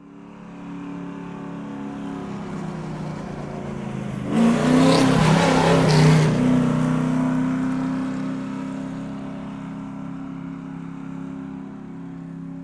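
Car engine running with a steady hum that grows louder, peaks in a loud rush of noise about four to six seconds in, then slowly fades, like a car driving past.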